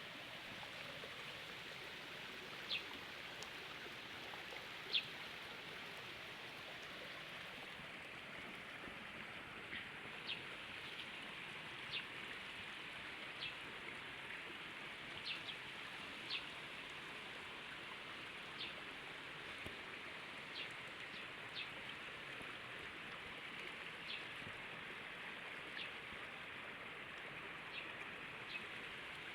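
Running water flowing steadily, with short sharp plinks of drops or splashes every second or two.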